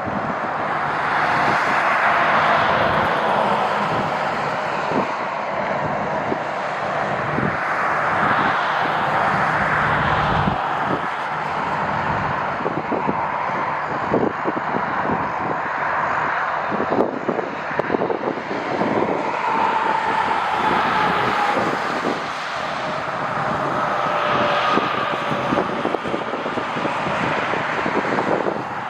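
Jet airliner engines running with a steady roar and a faint whine in the second half, while gusts of wind buffet the microphone.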